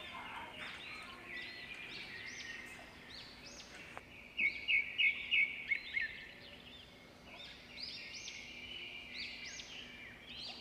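Several birds chirping: many short, arching calls overlapping, with a run of about six loud, quick notes around the middle.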